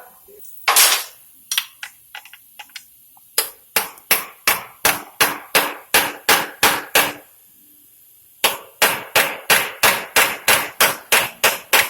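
Hammer blows on metal: one heavy strike about a second in, then two quick runs of about three to four ringing strikes a second, the second run starting after a short pause.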